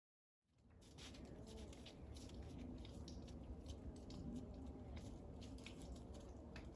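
Silence, then after a cut a faint indoor room tone with a low hum and scattered small clicks and ticks.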